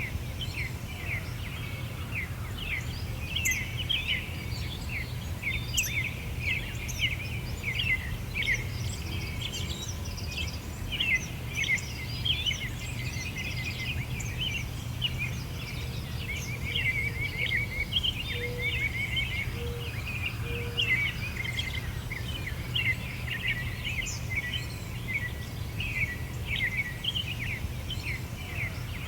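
Several birds singing at once: a dense, unbroken stream of quick high chirps and trills over a steady low background rumble. About two-thirds of the way through, a few short, lower notes sound three times.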